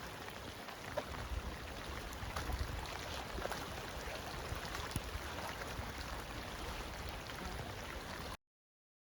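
Steady rain falling, with scattered drops ticking close by and a low rumble underneath. It cuts off suddenly near the end.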